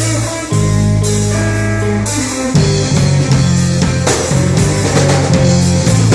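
Live rock band playing an instrumental passage: guitar chords held over bass and drum kit. After a brief break about half a second in, the band comes back, and from about two and a half seconds the chords turn choppier, with steady drum hits.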